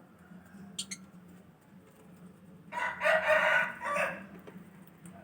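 A rooster crows once, nearly three seconds in, a single call lasting about a second and a half that trails off in a final falling note.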